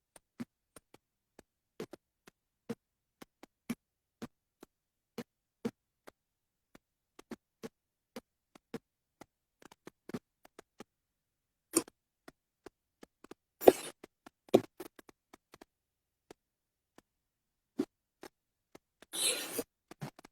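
Scattered light taps and clicks, a few a second, with two or three louder knocks about halfway through and a short rustle near the end.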